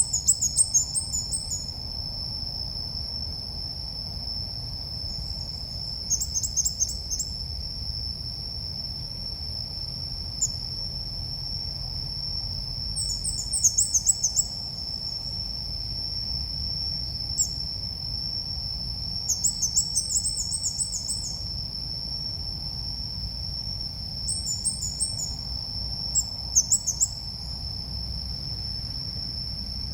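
Calls of the bird known in Vietnam as chim ốc mít, played as a trapping lure: short rapid strings of high chirps, each about a second long, coming every few seconds. Under them runs a steady high insect trill, with a low rumble.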